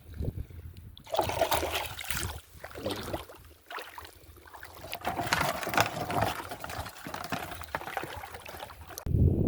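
Shallow seawater splashing and sloshing in irregular bursts, the loudest about a second in and again around the middle.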